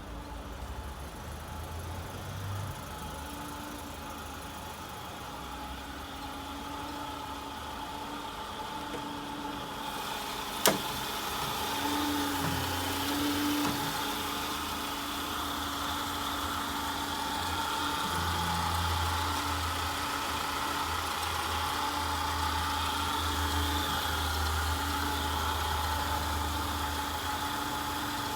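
1991 Mercedes-Benz 190E 2.3 (W201) four-cylinder engine idling steadily after a cold start. A single sharp click sounds about ten seconds in.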